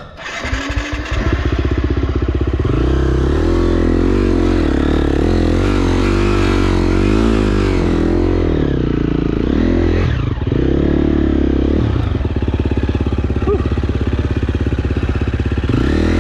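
KTM enduro dirt bike engine running under load, its revs rising and falling as the throttle is worked. It picks up over about the first second and a half, then keeps going.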